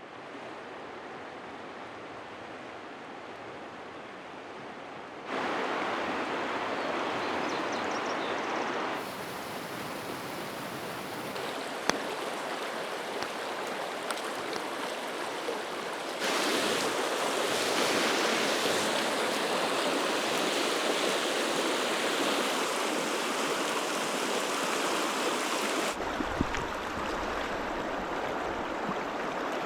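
Rushing river current, a steady hiss of flowing water, jumping in loudness at several abrupt cuts; low rumble from wind on the microphone joins near the end.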